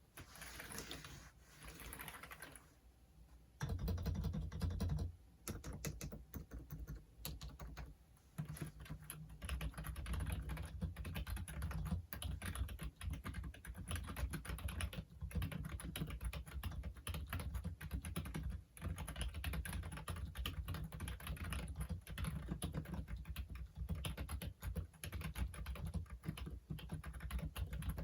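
Typing on a Logitech Wave Keys ergonomic wireless keyboard: a fast, continuous run of soft key clicks with a low thud to each stroke, broken by a few brief pauses. The first three or four seconds hold a quieter, softer sound before the typing starts.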